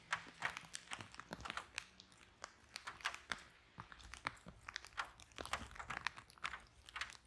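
Wood fire burning in a fireplace, crackling with frequent irregular sharp pops and snaps over a faint low rumble.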